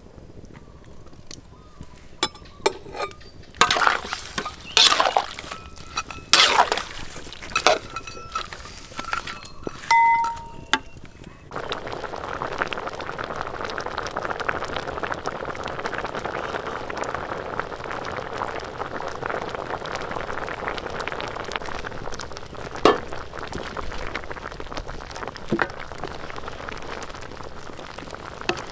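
Cooking utensils clinking and knocking against metal cookware, one clink ringing briefly, then about eleven seconds in a steady sizzle starts suddenly: food frying in hot oil.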